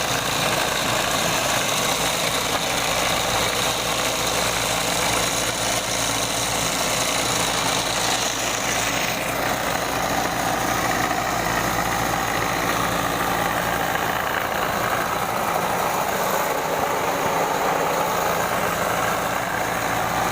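Electric motor of a homemade drill press, built from a table saw, running steadily with a low hum. About nine seconds in, the high-pitched part of the sound changes and drops a little.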